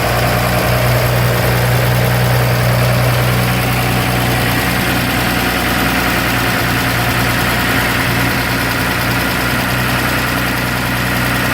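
1947 International KB-7 truck's gasoline engine idling steadily.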